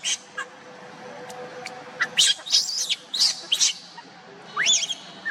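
High-pitched squealing calls of a young monkey: one at the start, a quick run of about five calls a little after two seconds in, then a single call that rises in pitch near the end.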